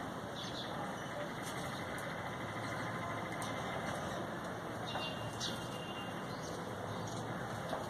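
Steady low rumble of traffic and ambient noise, with a few short, high bird chirps scattered through it.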